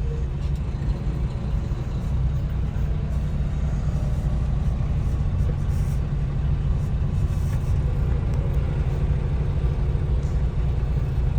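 Steady low rumble of a truck's engine and road noise heard inside the cab.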